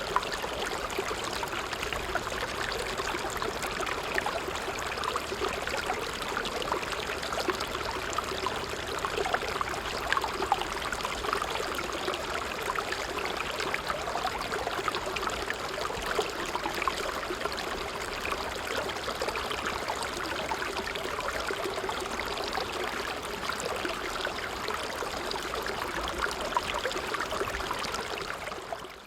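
A brook running over stones, a steady babbling and trickling of water.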